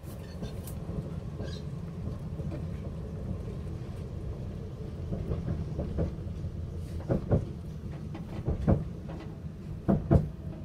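Inside a moving train carriage: the steady rumble of wheels on the track, with paired clacks in the second half as the wheels cross rail joints.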